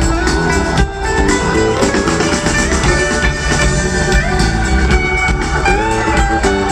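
Live rock band playing an instrumental passage, with guitar, bass and drums, recorded from the crowd on a small camcorder.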